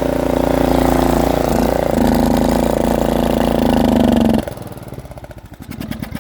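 Poulan Pro small engine on a test stand running steadily for a few seconds, having just started once its wiring harness was disconnected; its speed dips briefly about two seconds in. About four and a half seconds in it shuts off and coasts down with fading puffs.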